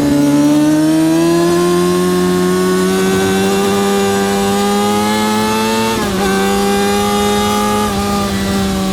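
Yamaha R6 (RJ03) 600cc inline-four engine at race pace. Its pitch climbs steadily under throttle, drops sharply about six seconds in as it shifts up a gear, then climbs again and eases off slightly near the end.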